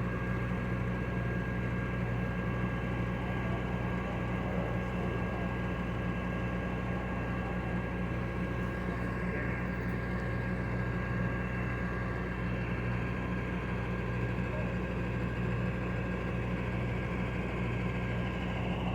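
A vehicle engine idling steadily: an even low rumble with a faint thin whine above it.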